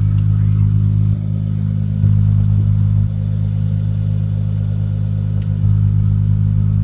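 2019 Dodge Challenger SXT's 3.6-litre V6 idling steadily shortly after a cold start in below-freezing air. Its level drops slightly about a second in, comes back a second later, drops again around three seconds in and comes back near the end.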